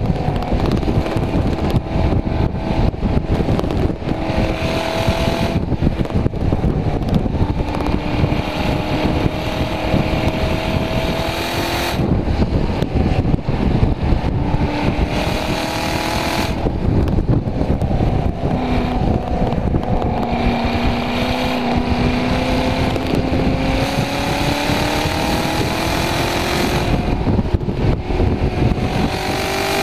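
Chevrolet Corvette C7 Grand Sport's 6.2-litre LT1 V8 at full throttle on track, heard from inside the cabin: the engine note climbs through each gear and drops back at every shift, several times over. Heavy wind and tyre noise runs underneath.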